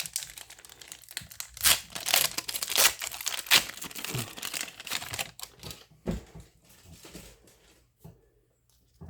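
A baseball card pack's wrapper being torn open and crinkled. The crinkling is dense and loud for the first five seconds or so, then thins to a few light rustles and clicks and dies away near the end.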